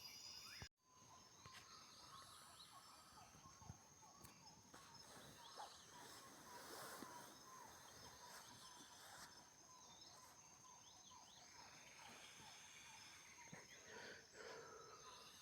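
Faint rainforest ambience: a steady high insect drone with scattered small chirps of insects and birds. The sound cuts out briefly about a second in.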